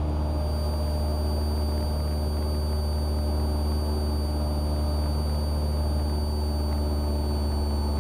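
Cessna 172R's four-cylinder Lycoming engine and propeller droning steadily in flight, heard from inside the cabin, with a faint thin high whine above it.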